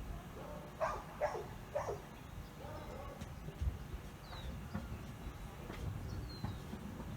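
A dog whimpering and yipping: three short cries close together about a second in, then fainter ones. It is a dog that is afraid of the thunder.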